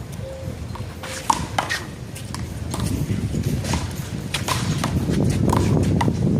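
A rubber handball in play during a one-wall rally: a series of sharp slaps, palm on ball and ball against the wall and pavement, the loudest about a second in, over a steady low rumble.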